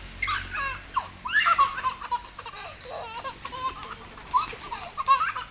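A baby of about nine months laughing and squealing, in many short, high-pitched calls.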